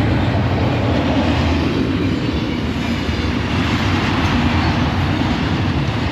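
BNSF intermodal freight train's container and trailer cars rolling past, a steady rolling noise of steel wheels on rail.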